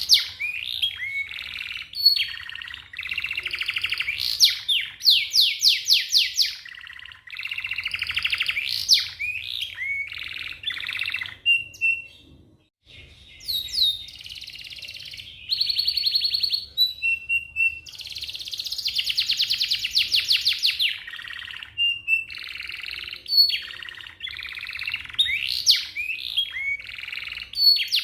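Domestic canary singing a long song of fast rolling trills mixed with rising and falling whistled notes, with a brief pause about halfway through.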